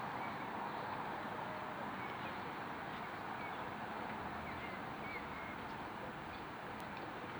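Steady background murmur of a crowd, with a few faint short chirps.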